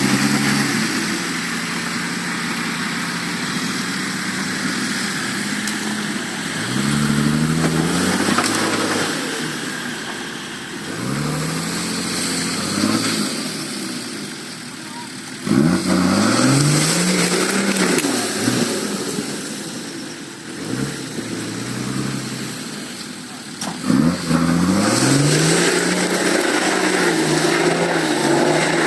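A motor vehicle's engine revving up and dropping back about five times, as it pulls on a strap to bring down a tree.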